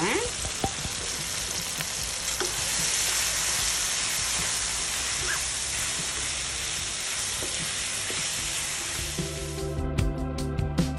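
Onions, tomatoes, potatoes and freshly added spice powders sizzling steadily in hot oil in a frying pan. Near the end the sizzle cuts off and background music with a beat starts.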